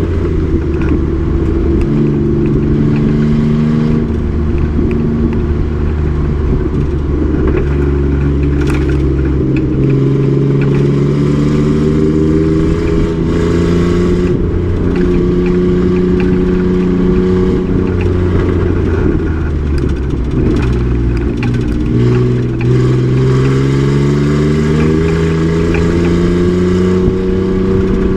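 Race truck's engine running hard on track, its pitch climbing as it accelerates, then dropping at a shift or a lift, several times over; the deepest dip comes a little past two-thirds through before it climbs again.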